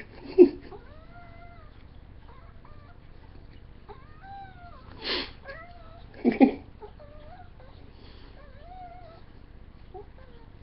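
Domestic cat meowing in a few short, loud calls: one about half a second in, another about five seconds in, then a quick pair just after.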